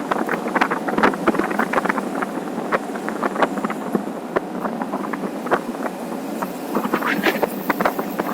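Wind buffeting the microphone on a moving motorcycle: a steady rush broken by frequent, irregular crackles.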